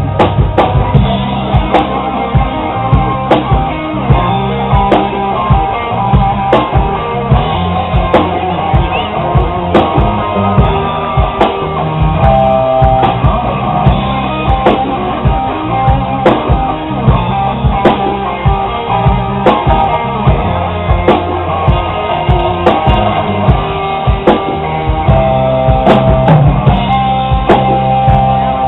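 Live rock band playing: a steady drum-kit beat under bass and electric guitar, in muffled sound with no high end.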